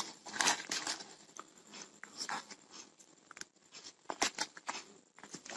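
Handling noise as a small leather pouch is opened and the microphone accessories inside are handled: irregular rustles and light clicks, with a few sharper clicks about four seconds in.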